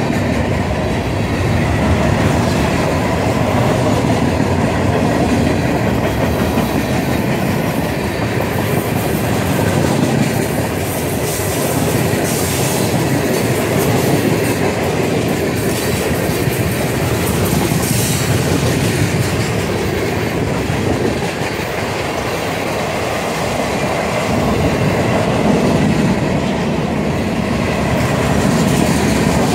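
Freight cars of a long train (open hoppers, a tank car and empty centerbeam flatcars) rolling past close by: a steady, loud rumble and rattle of steel wheels on the rails.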